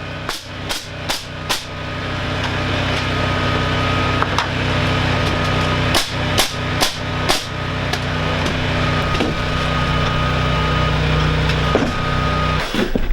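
Hammer blows in two quick runs of about four strikes each, plus a single knock. A steady engine hum runs underneath throughout.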